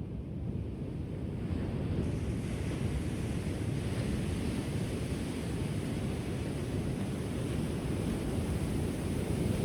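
Ocean waves washing onto a shore: a steady, deep rushing that swells about two seconds in as a wave comes in.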